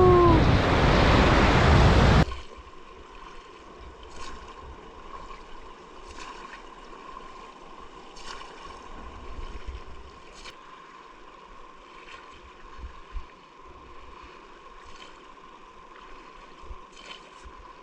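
Loud rushing river water that cuts off suddenly about two seconds in. After it comes a faint hiss with a thin steady tone and a few soft clicks.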